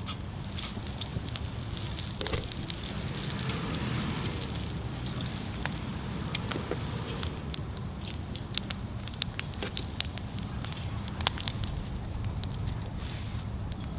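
Wood fire crackling with frequent sharp pops over a steady hiss.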